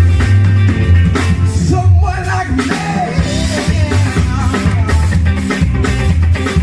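Live band playing an upbeat song with a heavy bass line and drums, and a singer's voice coming in around the middle.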